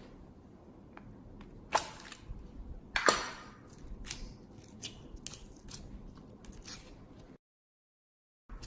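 Slime being pressed and squished by hand, with many small crackling pops and two louder crunches about two and three seconds in. The sound drops out completely for about a second near the end.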